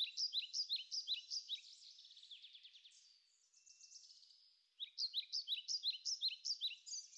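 Songbird chirping: quick series of short downward-sliding notes, about five or six a second, that thin out into a faint trill and a brief pause midway, then start up again about five seconds in.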